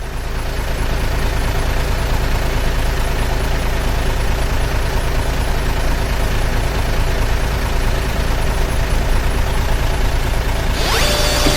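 A steady engine rumble, like a truck's, with a brief gliding tone near the end.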